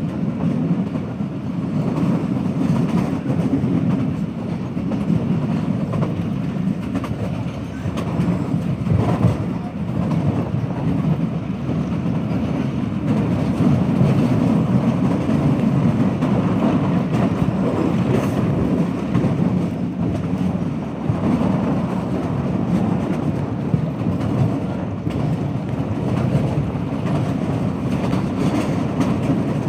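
Passenger train running along the track, a steady rumble of the wheels on the rails.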